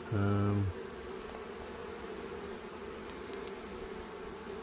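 Honeybees buzzing steadily around an open hive during a frame-by-frame inspection. A brief, loud, low hum of a man's voice cuts in near the start, louder than the bees.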